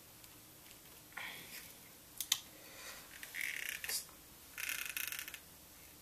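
A blunt tool scraping and clicking against a skateboard truck's pivot cup and baseplate as it is pried at, in several short scrapes with a couple of sharp clicks; the snug pivot cup is not coming loose.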